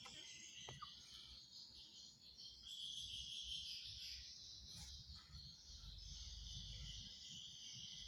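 Faint, steady high-pitched chirring of insects, with a faint low rumble underneath.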